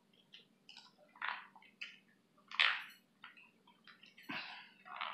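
Wet chewing and lip-smacking of a person eating lobster meat: a run of short, irregular smacks, the loudest about two and a half seconds in.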